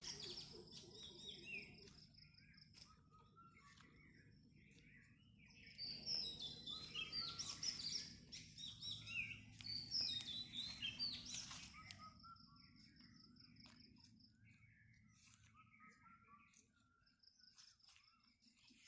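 Several small birds chirping and calling together, with one bird giving a fast, even, high trill several times. The chirping is busiest and loudest from about six to twelve seconds in, over a faint low rumble.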